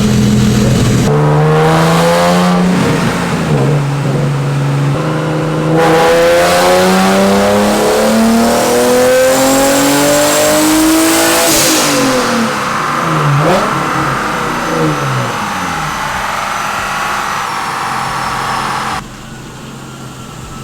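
Turbocharged Nissan 370Z's 3.7-litre V6 making a full-throttle dyno pull. The revs climb steadily for about ten seconds, a high whistle joins near the top, then the revs fall away as the throttle is lifted and the engine coasts down.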